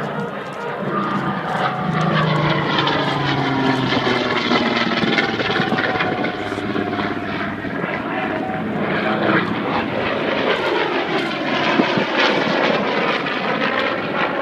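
Piston-engined propeller warplane flying past low, its engine and propeller note sliding down in pitch as it passes, with a second pass in the latter half.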